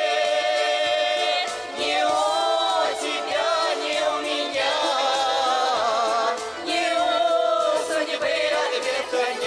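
A Russian folk song sung with instrumental accompaniment: voices holding long, wavering notes.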